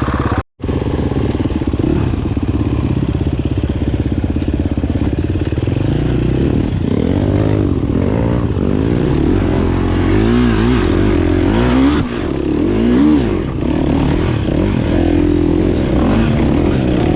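Dirt bike engines running with a rapid, even pulse, then revving up and down repeatedly from about six seconds in, the pitch rising and falling in short swells. The sound cuts out for a moment about half a second in.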